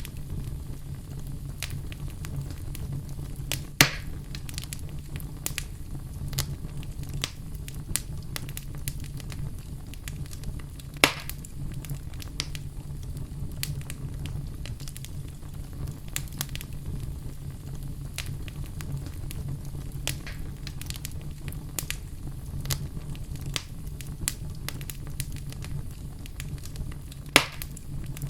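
Wood fire burning in a fireplace: a steady low rumble of flames with frequent small crackles, and three louder pops, about four seconds in, near the middle and near the end.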